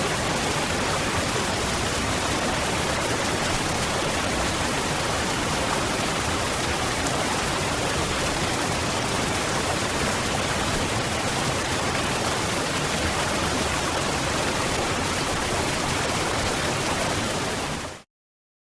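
Waterfall: a steady, even rush of falling water that fades out quickly near the end and cuts to silence.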